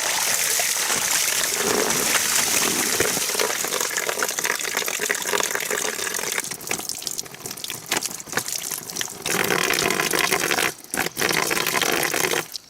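Water pouring and splashing steadily as someone washes. It turns uneven, with short breaks, from about six seconds in, and stops suddenly near the end.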